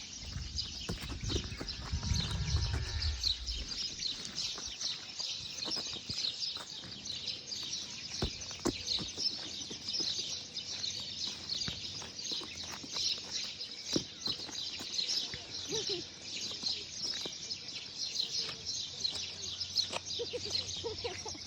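A flock of small birds chirping busily together in a dense, unbroken chorus at dusk. A low rumble sounds for the first few seconds, and a few scattered clicks come through.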